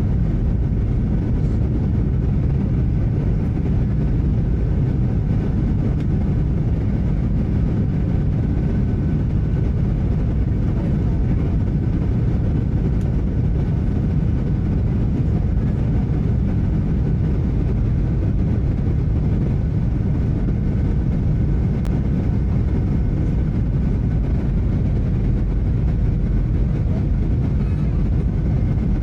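Steady cabin noise of a Boeing 737-800 in flight: a low, even rumble of engines and airflow with faint steady tones above it.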